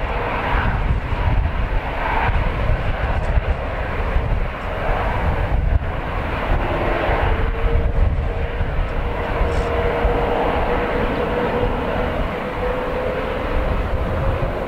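Jet engines of a Boeing 787-9 Dreamliner running as the airliner passes, a broad roar over a heavy low rumble, with a steady whine joining about six seconds in. Strong wind buffets the microphone.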